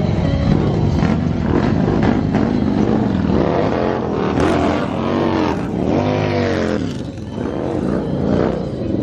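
Vehicle engines revving, their pitch repeatedly rising and falling over a steady low rumble.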